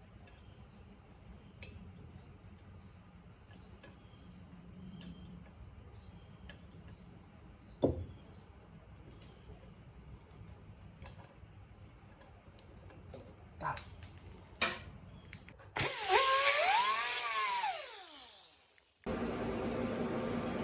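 A power tool's motor whirs for about two seconds, its pitch rising and then falling as it winds down. Before it there are only scattered faint clicks, and after it the sound cuts to a steady hum.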